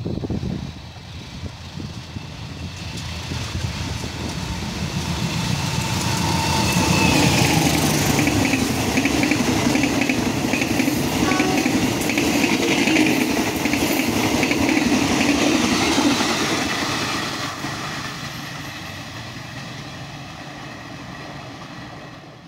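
Locomotive-hauled Indonesian passenger train approaching and passing close by. The rumble and wheel noise build to their loudest about seven seconds in, with a run of regular wheel clicks as the carriages go by, then fade away as the train recedes.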